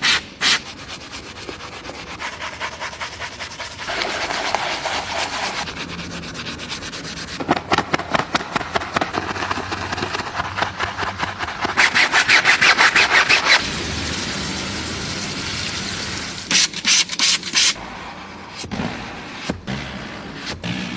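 Fast scrubbing strokes rubbed back and forth against a surface, many strokes a second, in runs. The loudest and quickest run comes a little past the middle, with a shorter burst after it.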